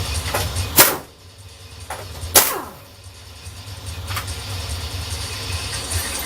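Two sharp knocks about a second and a half apart, the second trailing off with a falling tone, over a steady low rumble.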